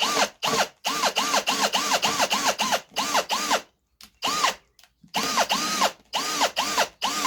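Electric drill boring a perch hole into wood, its trigger squeezed in many short bursts so the motor whines up in pitch and winds back down each time, with a couple of short pauses.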